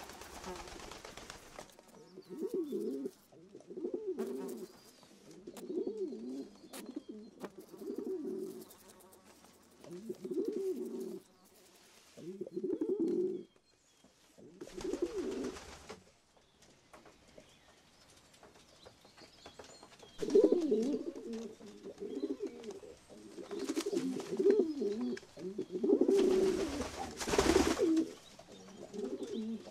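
Pigeons cooing: low, warbling calls repeated in phrases about every two seconds, pausing for a few seconds midway. A few brief rushes of noise break in, about halfway through and near the end.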